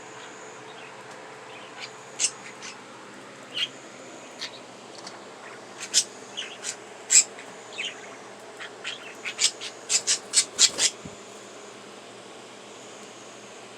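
Pet budgerigars giving short, sharp chirps, scattered at first and then a quick run of them near the end, over a steady faint hum.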